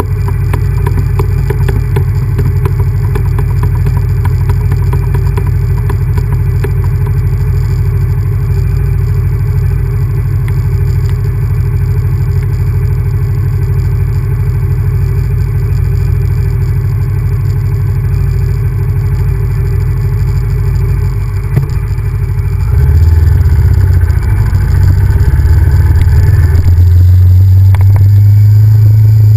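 Honda VTR1000F's 90-degree V-twin engine running as the bike is ridden, a loud low rumble. About 23 seconds in it grows louder, and near the end it settles into a steady low note.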